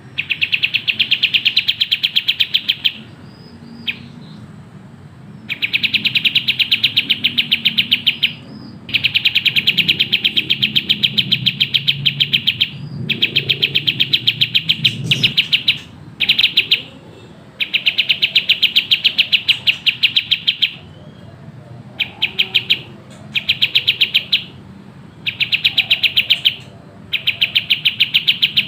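A kapas tembak songbird singing fast, tightly packed phrases of rapid repeated chirps. Each burst lasts one to three seconds, with short pauses between them.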